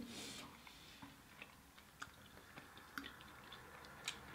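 Faint chewing: a few soft mouth clicks and smacks, roughly a second apart.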